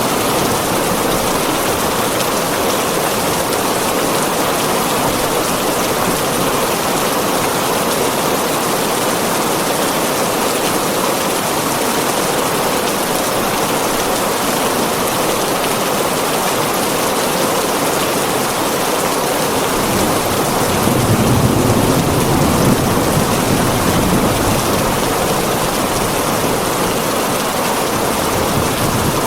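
Heavy rain drumming steadily on a tin roof. About twenty seconds in, a low roll of thunder swells for a few seconds, then fades back into the rain.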